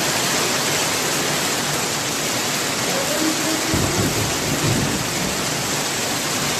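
Heavy rain pouring steadily. A little past halfway, a low rumble of thunder comes in under the rain and continues.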